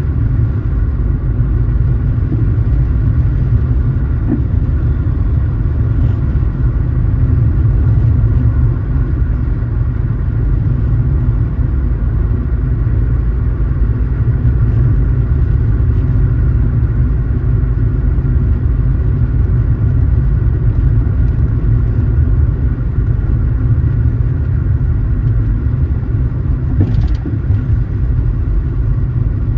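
Car driving along the road: a steady, loud low rumble of engine and road noise, with faint steady tones above it. A brief sharp sound comes near the end.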